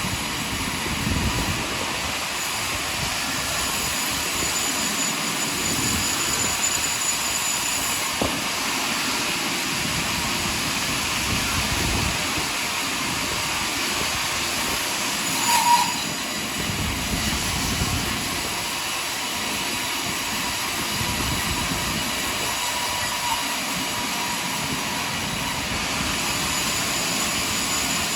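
Sawmill running steadily as it saws through a large pine log. About halfway through there is a brief, louder screech.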